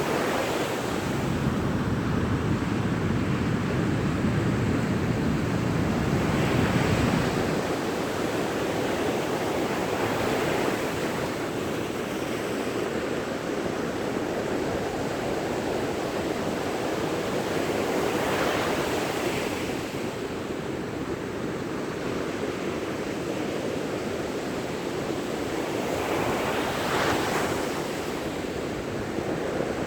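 Sea waves breaking on a beach, a steady surf roar with a swell every several seconds, the strongest and deepest in the first few seconds. Wind buffets the microphone.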